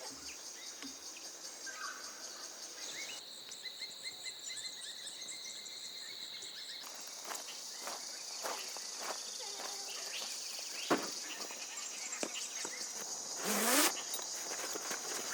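Steady high-pitched insect chorus of crickets or cicadas in bushland, with scattered short bird chirps and light clicks. The chorus changes abruptly twice, and a brief louder swishing sound falls in pitch near the end.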